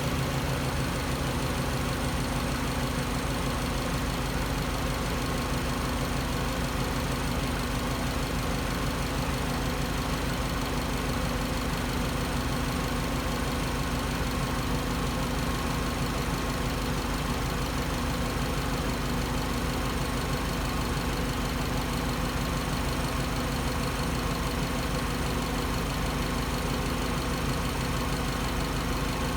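Subaru EJ207 turbocharged flat-four idling steadily, with the electric radiator cooling fans running. The owner suspects a failed head gasket or a cracked head or block pushing combustion gases into the coolant.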